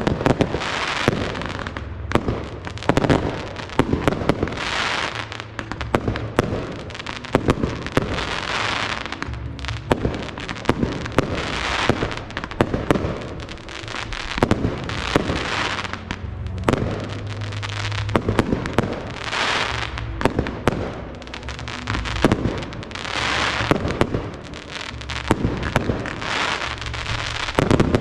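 Fireworks display: aerial shells bursting one after another with sharp bangs, each followed by a wash of crackling and hissing, with music playing underneath.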